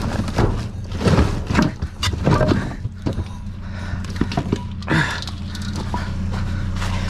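Clatter, knocks and scrapes of scrap items being handled and pulled out of a dumpster over the first five seconds, over the steady low hum of an idling vehicle engine.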